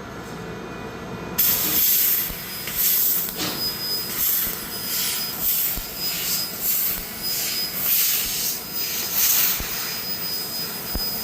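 CNC laser cutter cutting steel: a loud hiss starts abruptly about a second and a half in and carries on, swelling and fading, with a thin steady high whine over it.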